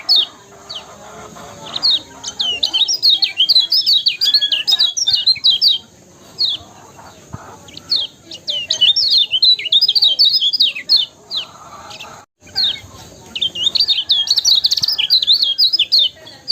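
Kecial kuning songbird singing: phrases of a few seconds of rapid, high twittering chirps, broken by short pauses.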